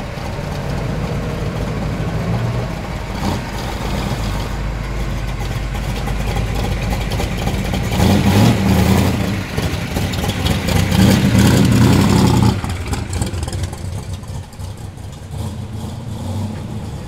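Classic cars and trucks driving slowly past one after another, engines running. The loudest is a blue early-1960s Chevy II Nova with a raised front end, whose engine swells loudly about halfway through and fades a few seconds later.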